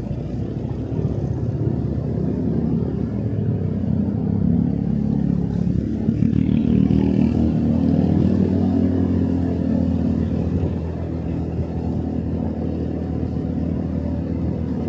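Motorcycle engine running while riding along, pulling harder for a few seconds around the middle and easing back near the end.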